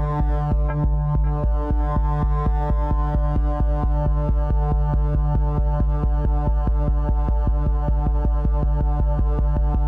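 Electronic music track made in FL Studio: synthesizer chords over a heavy bass, driven by a fast, steady pulse.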